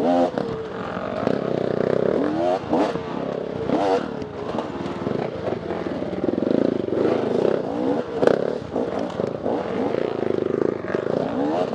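Dirt bike engine revving up and falling back again and again, the pitch climbing and dropping every second or two as the throttle is worked on rough ground, with clattering knocks mixed in and one sharp louder knock about eight seconds in.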